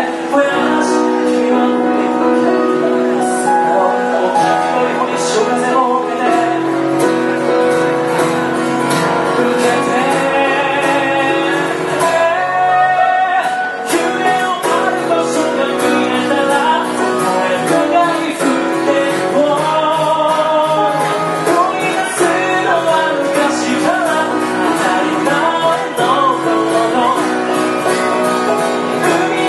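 Live band music with singing, playing continuously.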